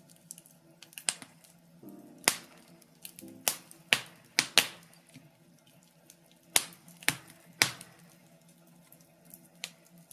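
Birch logs crackling in a fireplace: irregular sharp pops and snaps, a few of them loud, over a steady low hum.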